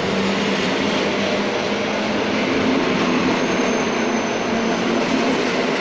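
Electric multiple-unit commuter train passing close along the platform at speed: a steady, loud run of wheel-on-rail noise.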